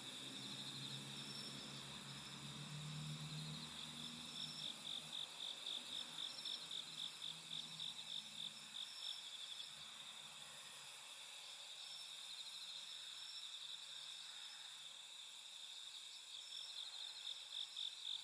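Night insects chirping in long runs of rapid, evenly spaced pulses, about five a second, over a steady high insect trill. A faint low hum fades out in the first half.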